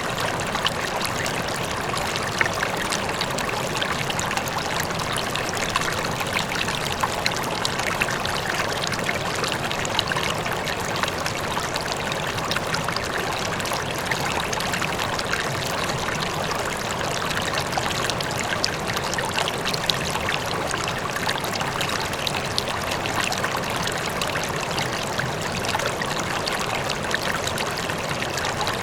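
River flowing steadily over stones, a continuous rush with small splashes and trickles, and a waterfall running faintly in the distance beneath it.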